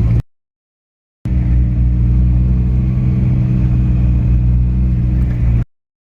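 Car engine running at a steady speed with a low, even hum. It is cut off sharply just after the start, returns after about a second of silence, runs for about four seconds and cuts off again.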